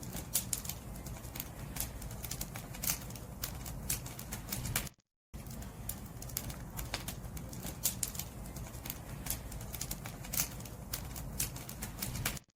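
Wood fire burning, with irregular sharp crackles and pops from the burning firewood over a steady low rumble of the flames. The sound cuts out completely for a moment about five seconds in and again at the very end.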